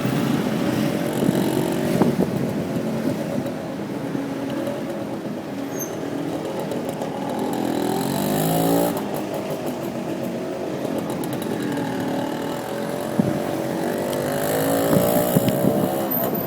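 Motorcycle taxi engine running in city traffic, heard from the pillion seat. The engine note rises as it speeds up about halfway through, drops off sharply, then rises again near the end.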